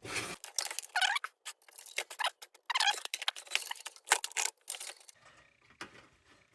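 Wire bale of a Defiance cold blast lantern clicking and rattling against the lantern's tin frame as it is worked into its resting position, with a couple of short metal squeaks. The clatter dies down to a few faint ticks after about five seconds.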